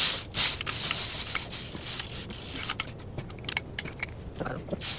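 Hand-work noises from engine repair: irregular clicks, rattles and scraping of metal parts and tools, busiest in the first three seconds.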